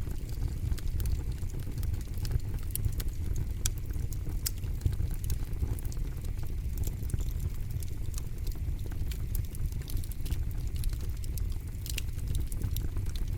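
Campfire crackling: many sharp, irregular pops and snaps of burning wood over a steady low rumble.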